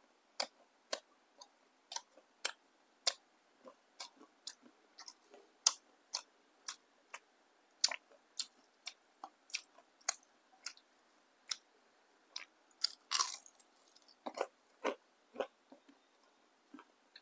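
Crisp fried tempeh fritter being bitten and chewed close to a clip-on microphone: sharp, short crunches about twice a second, with a denser run of crunching about thirteen seconds in.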